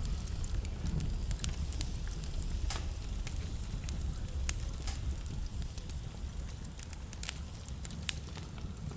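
Wood fire burning in a fireplace: a steady low rumble of the flames with irregular crackles and sharp pops from the burning logs.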